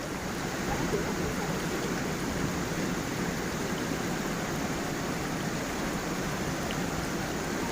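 Forest stream and small waterfall: water rushing and splashing over stones in a steady, even wash.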